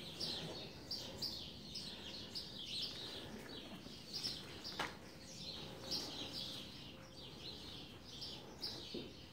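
Small birds chirping steadily in a rapid run of short, high chirps, with one sharp click about five seconds in.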